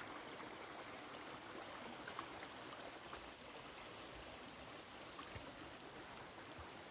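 Faint, steady rush of a waterfall's falling water, with a few light ticks.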